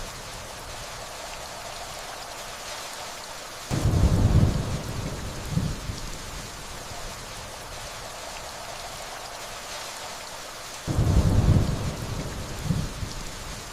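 Steady rainfall with two rumbles of distant thunder, about four and eleven seconds in. Each rumble is followed by a smaller low swell a couple of seconds later.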